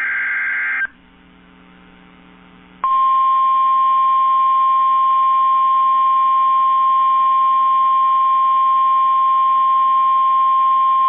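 NOAA Weather Radio alert as a radio broadcast. It opens with the end of a SAME digital header burst, a harsh warbling data screech that stops just under a second in. After a short pause with a faint hum, the warning alarm tone starts: one steady, loud, single-pitch tone held for about nine seconds, signalling that a warning message follows.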